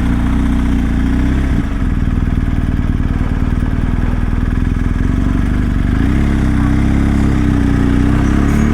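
Adventure motorcycle's engine running steadily, its note dipping briefly about a second and a half in and rising a little near the end.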